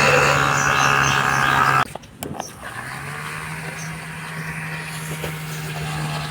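Small DC motor spinning a propeller, a steady whir with a high whine. It cuts off abruptly about two seconds in, a couple of clicks follow, and a quieter whir comes back about a second later.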